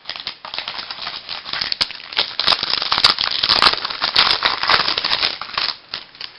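Baseball card pack and cards being handled: a dense crackling rustle that swells in the middle and dies away near the end.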